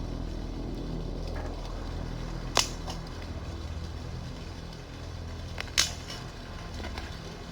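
A steady low rumble with two sharp clicks or snaps about three seconds apart, and a few fainter ticks after the second.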